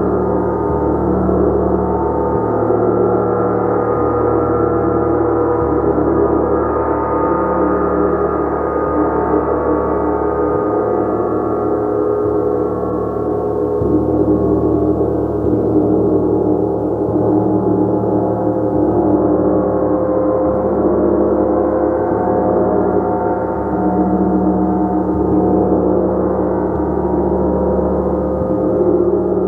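Gong played continuously, a dense sustained wash of many overlapping ringing tones with no single strike standing out.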